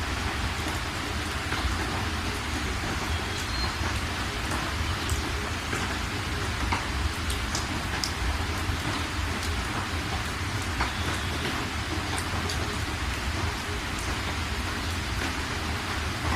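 Steady rain falling, with a constant hiss, scattered sharper drop impacts and a low rumble underneath.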